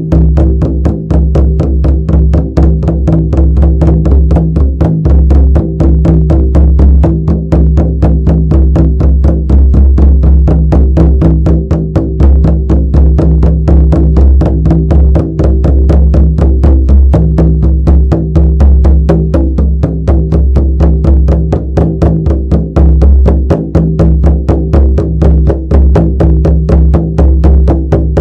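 Shamanic frame drum beaten in a fast, steady, unbroken beat of about four to five strokes a second, each stroke leaving a deep, booming ring.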